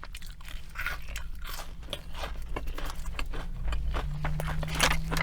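A person chewing and crunching fried fast food close to the microphone, with many small crisp crunches in quick succession.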